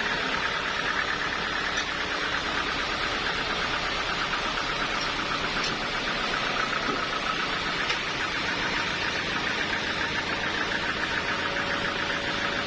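Sawmill machinery running steadily, a continuous engine-like drone with a fast, even buzz in the upper middle of the sound and no pauses.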